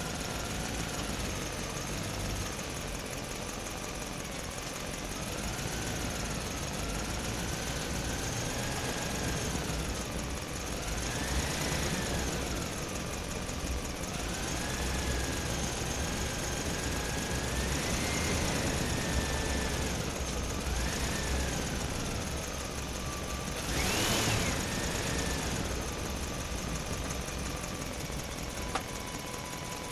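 Engine running with its note rising and falling again and again, as if revving up and easing off, with a louder swell about three-quarters of the way through.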